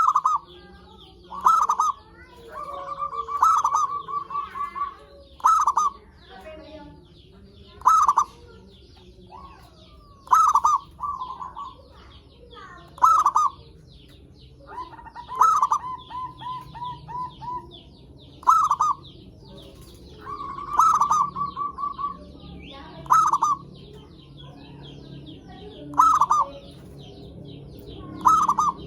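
Zebra dove (perkutut) cooing: a loud call about every two and a half seconds, each a strong note or two, often followed by a quick run of short repeated coos. Fainter chirping of small birds runs underneath.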